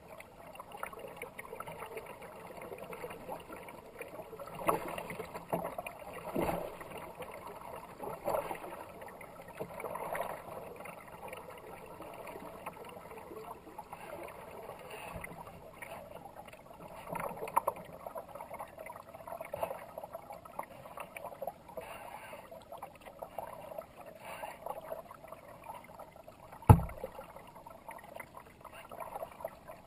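Kayak paddle strokes dipping and splashing in fast river water every second or two, with water rushing along the boat. One sharp knock near the end.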